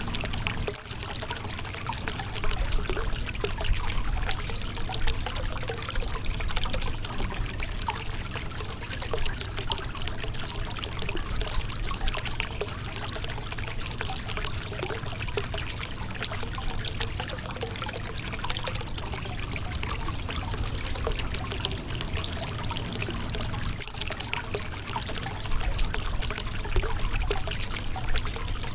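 Shallow river water running and splashing over a rocky bed, a steady rushing with many small trickles and splashes.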